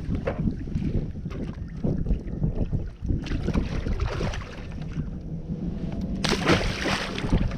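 Wind buffeting the microphone over water moving around a fishing kayak, with scattered light knocks. A louder rush of noise comes in about six seconds in and lasts just over a second.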